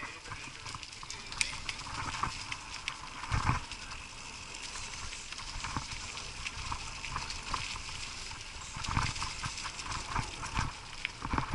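Mountain bike clattering and rattling over a rough dirt trail, with irregular knocks and clicks from the bike over bumps, a steady rush of noise behind them, and heavier thumps a few seconds in and again near the end.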